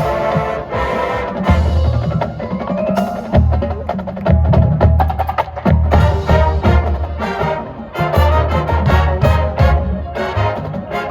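High school marching band playing a percussion-heavy passage, with many rapid struck notes over pitched instruments and repeated deep drum hits.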